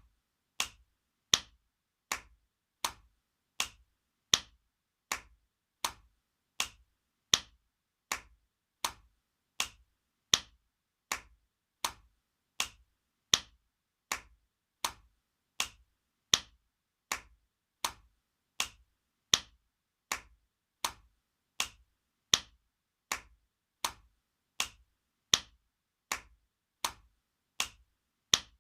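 Spanking sound effect: sharp slaps of a hand on skin in an even loop, about four every three seconds, the first of each four louder.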